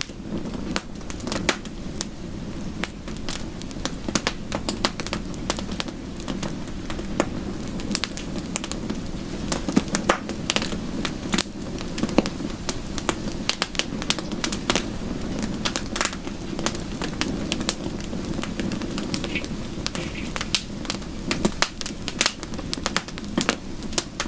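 Wood fire crackling: a steady run of irregular sharp pops and snaps over a low, even rush.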